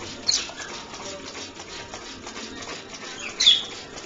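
Pet parrots giving two short squawks while being misted with water, one about a third of a second in and a louder one near the end, over a steady low hiss.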